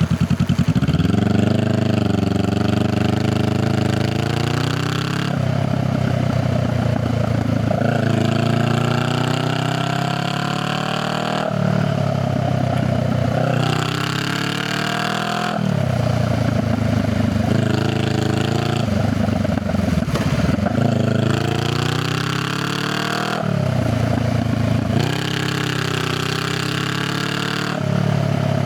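Honda Rebel 500's parallel-twin engine and exhaust under way, accelerating through the gears: the pitch climbs, drops at each shift and climbs again, several times over.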